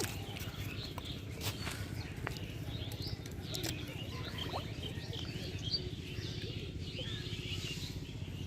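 Birds chirping over and over over a steady low rumble, with a few sharp clicks.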